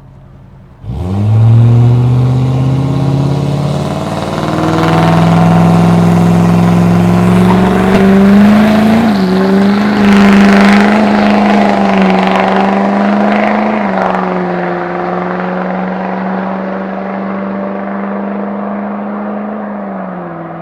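Chevrolet Silverado's 6.6-litre Duramax turbo-diesel V8 at full throttle, accelerating hard. It comes in abruptly about a second in, climbs in pitch, then holds with a few small pitch steps before slowly fading.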